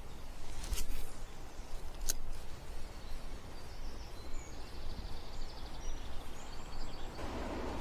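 Steady outdoor background noise with a low rumble, two sharp clicks about one and two seconds in, and faint high bird chirps in the middle.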